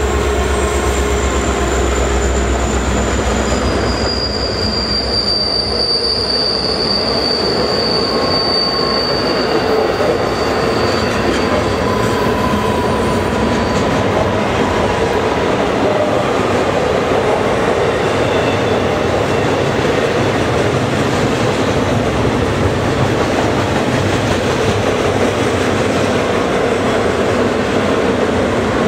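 Empty intermodal freight cars rolling past on a curve: a steady rumble of steel wheels on rail with high-pitched wheel squeal, strongest from about four to ten seconds in.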